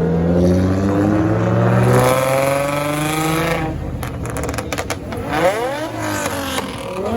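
Car engine accelerating hard, its pitch climbing steadily for about three and a half seconds, then dropping off with a few sharp clicks before revving up steeply again near the end.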